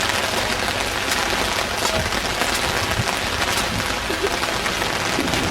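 Heavy rain falling: a steady hiss with scattered drop hits.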